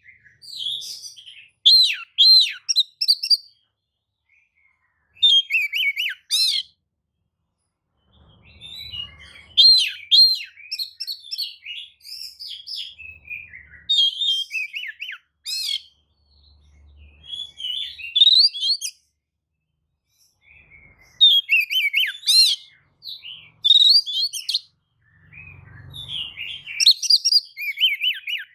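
Oriental magpie-robin singing: phrases of varied sweeping whistles, chirps and quick trills, with short pauses between phrases.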